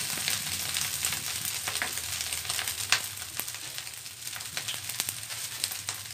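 Fried rice with sausage slices sizzling in a metal wok over a lowered flame: a steady hiss with scattered crackles and pops, one sharper pop about three seconds in.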